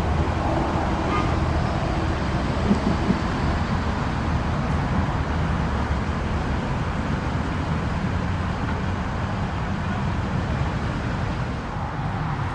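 Engines running steadily, a continuous low rumble.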